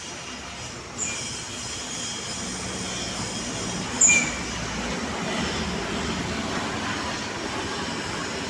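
Heavy trucks running past on the road, with short high-pitched squeals about a second in and, loudest, about four seconds in.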